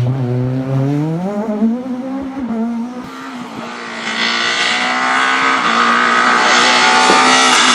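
Renault Clio rally car's four-cylinder engine revving up, then held at high revs as the car comes closer and gets louder.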